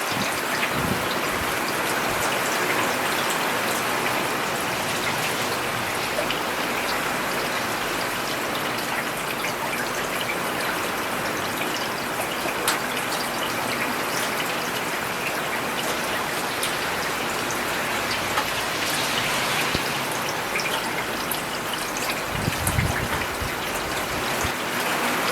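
Steady rain falling on a road: a dense, even hiss of drops with scattered sharper drip ticks. A low rumble swells briefly near the end.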